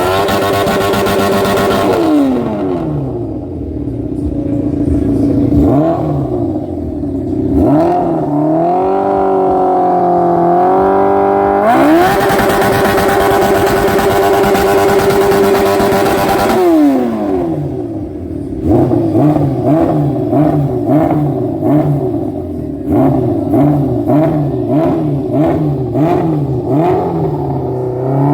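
A loud modified engine being revved hard: held at high revs twice for a few seconds each time, dropping away between them with its pitch rising and swaying, then blipped in a rapid series of short revs near the end.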